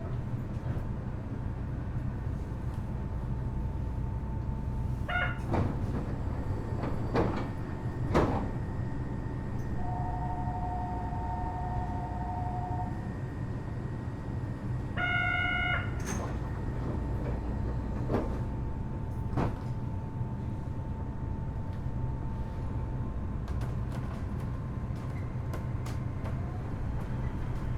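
Kitakyushu Monorail Series 1000 car standing at a station, its onboard equipment humming steadily. Electronic chime tones sound: short ones about five and fifteen seconds in, and a two-note tone held for about three seconds in between. Sliding doors thud several times.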